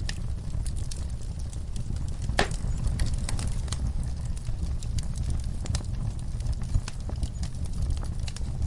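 Wood fire in a fireplace crackling: irregular sharp pops and snaps, one louder pop about two and a half seconds in, over a steady low rumble.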